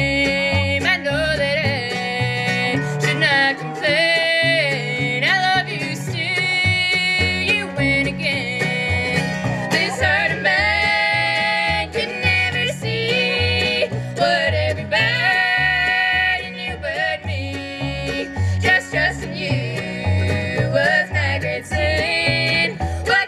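Bluegrass band of fiddle, mandolin, guitar and bass playing an instrumental break in a country song, a lead melody over strummed rhythm and a steady walking bass line.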